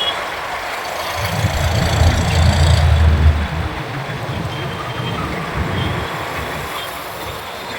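Road and traffic noise heard from a moving motorcycle. A deep low rumble swells and fades between about one and three and a half seconds in.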